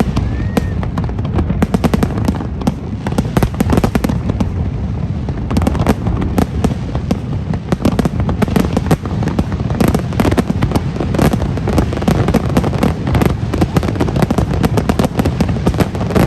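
Fireworks display in a dense, continuous barrage: many sharp bangs and crackles in quick succession over a deep rumble.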